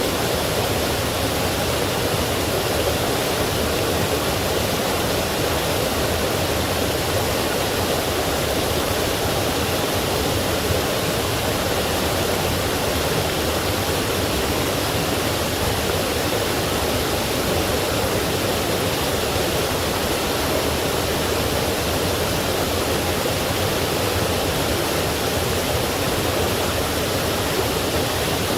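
Forest stream and small waterfall flowing, a steady full rush of water without change.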